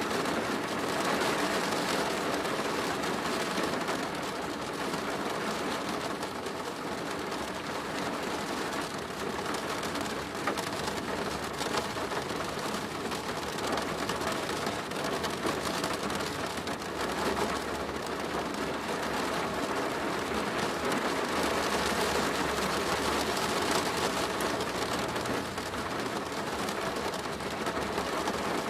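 Steady rain drumming on a plastic roof, a dense, even patter of drops.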